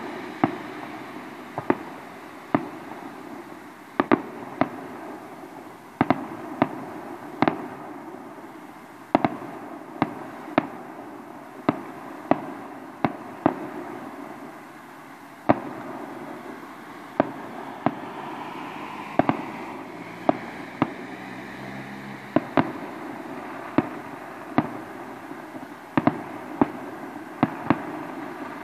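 Fireworks display: aerial shells bursting overhead in an irregular string of sharp bangs, about one to two a second, each fading away in an echoing tail.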